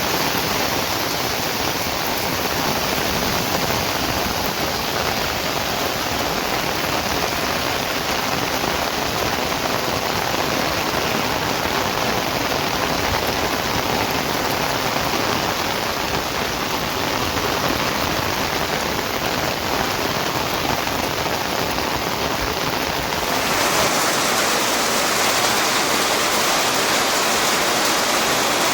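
Steady rain falling, a continuous even hiss. About 23 seconds in, the hiss turns brighter, with less low rumble.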